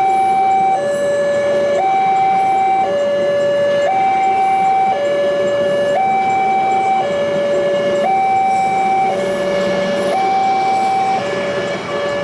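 Electronic two-tone warning alarm, switching steadily between a higher and a lower note, each held about a second.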